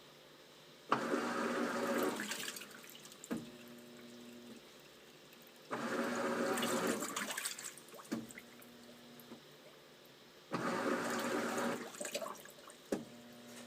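Sharp ES-TG5KC washing machine running a wash, its motor failing. In a cycle that repeats about every five seconds, a click is followed by about a second and a half of water churning, then a short steady motor hum. It happens three times.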